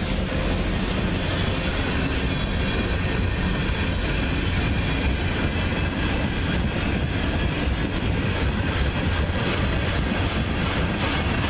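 A train's cars rolling past on the rails: a steady, loud rumble with repeated wheel clicks throughout.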